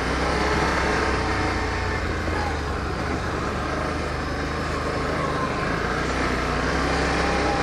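ATV engine running steadily while riding along a trail.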